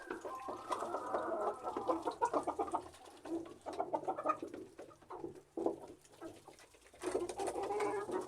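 A flock of domestic birds calling together, with many overlapping calls in bouts broken by short lulls.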